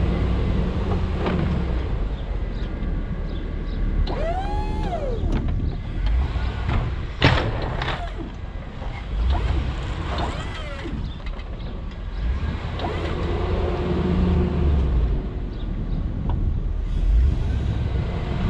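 Pickup truck engine running while plowing snow. The snowplow's electric-hydraulic pump whines, rising and falling twice. There is a sharp knock about seven seconds in.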